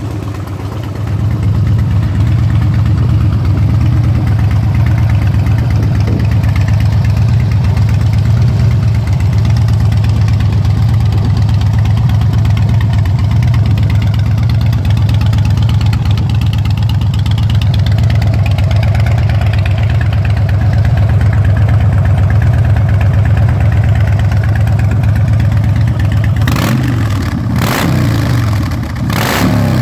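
Harley-Davidson 103 cubic inch V-twin with Vance & Hines aftermarket exhaust, idling loudly and steadily. Near the end it is revved several times in quick blips, the pitch rising and falling each time.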